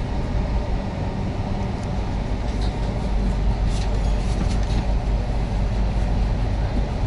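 Steady low rumble of a passenger train running, heard from inside the coach, with a few faint light clicks a few seconds in.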